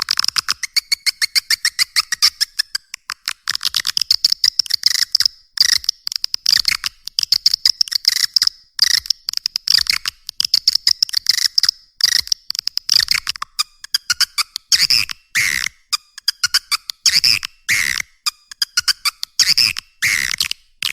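Swiftlet lure call: rapid trains of buzzy chirps and clicks, coming in quick repeated bursts with brief gaps between them. It is the recorded call that is played to draw swiftlets into a nesting house.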